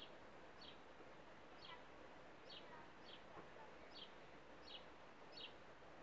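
A bird repeating a short, high, falling call note, faint, about once every three-quarters of a second.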